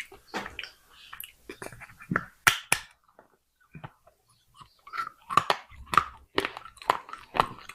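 Pieces of clay pot being bitten and chewed, with sharp, crisp crunches: two loud ones about two and a half seconds in, a short pause, then a quick run of crunches in the second half.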